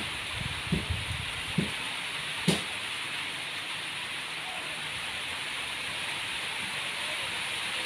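Steady hiss of rain falling, with a few short knocks close by in the first three seconds.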